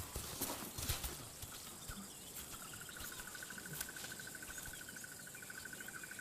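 Quiet bush ambience. A few soft knocks and rustles fall in the first second, then a fast, evenly pulsed trill starts about two and a half seconds in and carries on steadily, with faint chirps above it.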